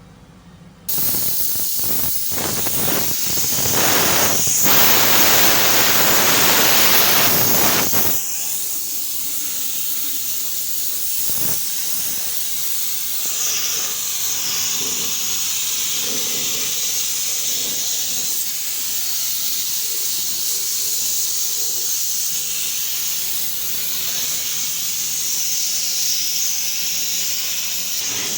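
Paint being sprayed: a steady hiss starts suddenly about a second in. It is fuller and louder for the first several seconds, then goes on thinner and higher.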